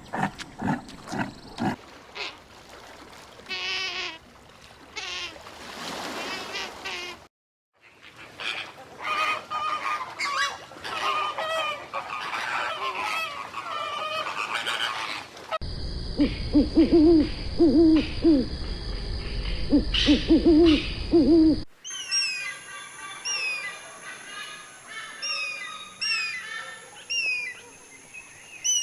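A run of different animal calls cut one after another. Near the middle comes a stretch of repeated low hooting calls, and near the end repeated high, falling chirps.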